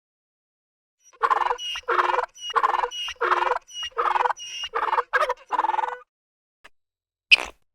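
An animal calling: about eight short calls in quick, even succession, with a sharp click near the end.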